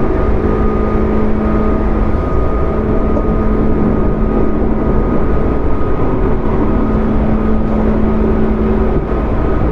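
Running sound of a JR 205 series 0 electric train with field-added excitation control, at steady speed. A loud low rumble of wheels on rail carries a steady hum at several fixed pitches, with no rise or fall in pitch.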